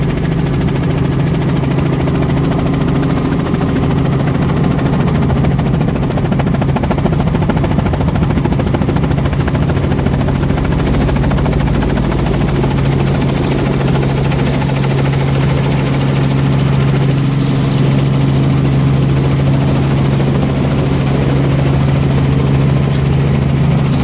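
Helicopter engine and rotor running steadily, a constant loud drone with a low hum.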